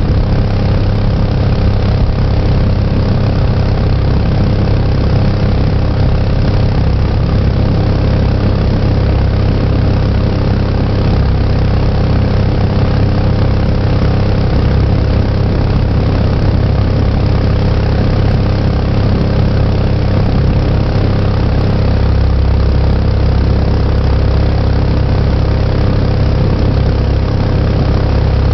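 Small engine of a Mokai jet-drive kayak running at a steady speed, with no rise or fall in pitch or level.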